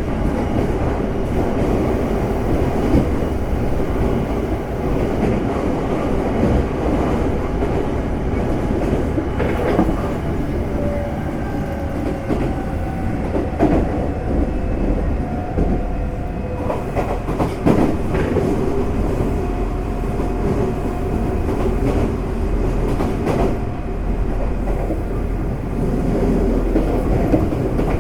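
Interior running sound of a Semboku Rapid Railway 5000-series electric train at speed: a steady rumble with wheels clacking over rail joints. A whine glides slowly down in pitch through the middle.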